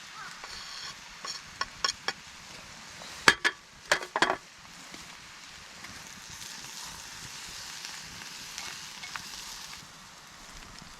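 Food sizzling as it fries over a campfire, with light clicks and then several sharp knocks of a utensil against the cookware a little over three seconds in.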